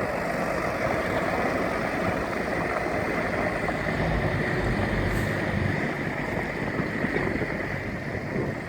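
Gravel dump truck's diesel engine running steadily while it tips its load, under a steady rushing noise and a faint high whine.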